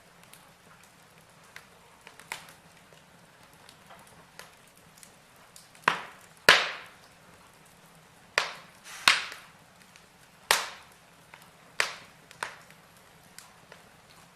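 Logs burning in a fireplace, crackling with scattered sharp pops over a faint steady hiss. The pops come thicker and louder about halfway through, the loudest about six seconds in.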